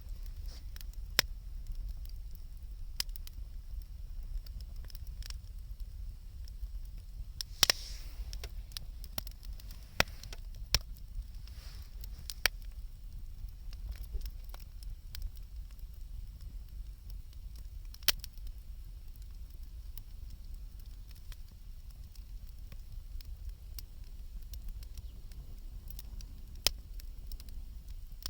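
Wood campfire crackling, with irregular sharp pops every second or two over a steady low rumble.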